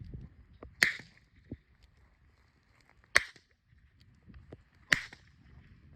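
Three shots from a .22 revolver firing subsonic .22 Long Rifle rounds: sharp, fairly quiet cracks about two seconds apart, each with a brief echo.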